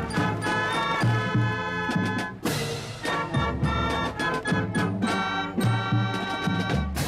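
A band with brass and drums playing an upbeat swing-style tune.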